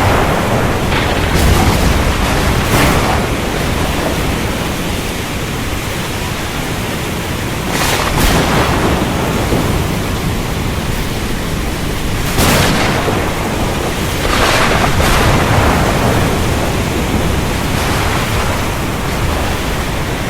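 Thunderstorm recording: steady heavy rain with rolling thunder, the rumbles swelling and fading about every few seconds.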